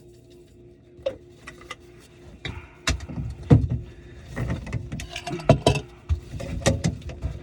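Irregular knocks and clatter of hard objects being handled, starting about a second in and busiest in the middle, over a faint steady hum.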